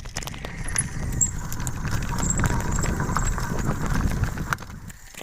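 Bike clattering and rattling over rough ground on a downhill run, with a dense rumble and many quick knocks that swell and then ease off near the end.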